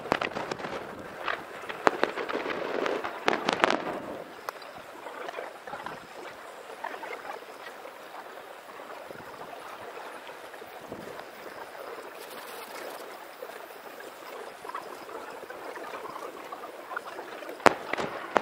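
Aerial firework shells bursting: a dense run of sharp bangs and crackles over the first few seconds, then a lull with only faint background noise, then a few loud bangs near the end.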